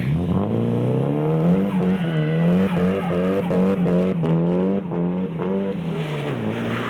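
A car engine revs up over the first second and a half and is held at high revs with a wavering pitch, as the car pulls away hard with wheelspin on a wet road. The revs drop about six seconds in.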